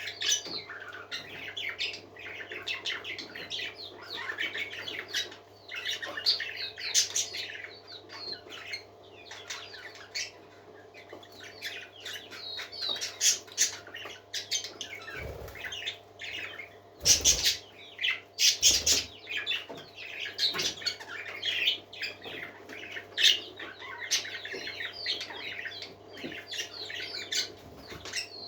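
A group of parakeets chattering and warbling continuously in quick, overlapping chirps, with a few loud sharp knocks or wing flaps about two thirds of the way in. A steady low hum runs underneath.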